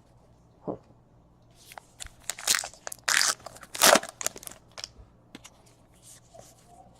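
Foil trading-card pack wrapper being crinkled and torn open, a run of sharp crackly rustles, loudest about four seconds in.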